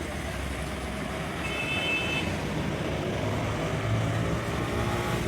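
Steady background street noise with passing traffic, with a short high-pitched tone about a second and a half in.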